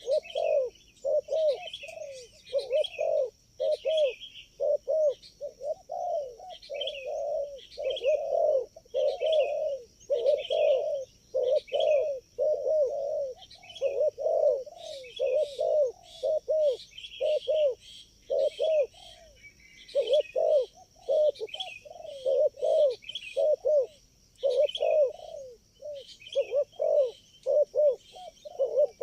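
Spotted doves cooing over and over, one short rounded coo phrase following another with hardly a pause, over a steady high-pitched hum.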